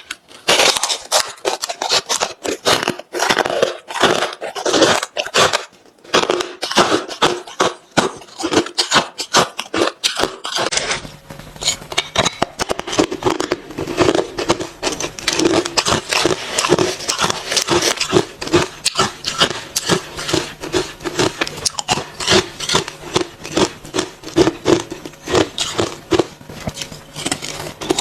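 Close-miked chewing of hard, refrozen crushed ice: a rapid, irregular stream of crunches.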